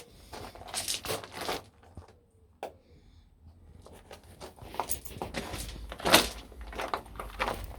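Footsteps crunching on a rough path, in irregular bunches with a pause in the middle and the loudest step about six seconds in.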